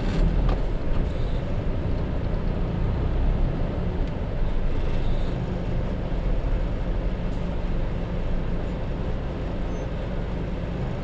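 Hino Rainbow HR city bus heard from inside while driving: its J07E diesel engine running steadily under the road noise.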